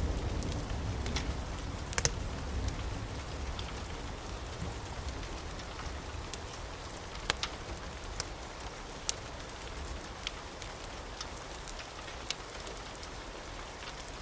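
Steady rain falling, with scattered sharp clicks and drips throughout. A low rumble of thunder dies away over the first few seconds.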